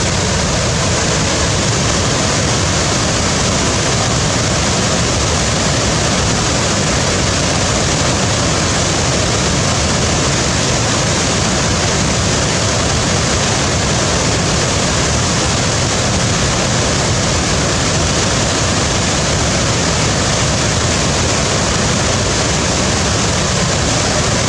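Waterfall: water falling and pouring in a loud, steady rush that never changes.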